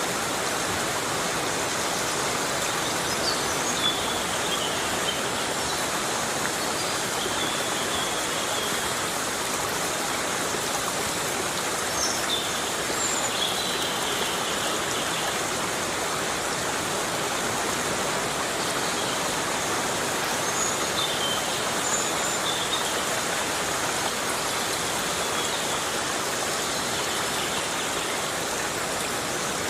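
Heavy rain falling steadily in a forest, an even hiss with no breaks.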